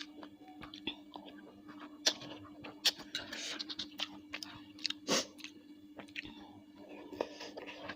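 Close-miked chewing of bakso meatballs: wet mouth sounds with irregular sharp clicks, the loudest about two, three and five seconds in.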